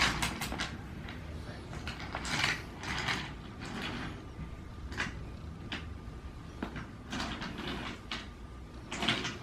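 Wooden toy train set being played with: irregular clicks, knocks and short scraping rattles as the train cars and track pieces are moved and bumped together.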